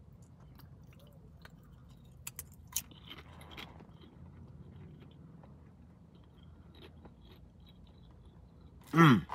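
A person crunching and chewing a nacho-cheese tortilla chip: a few sharp crunches about two and a half seconds in, then quieter chewing. Near the end comes a short, loud vocal exclamation falling in pitch.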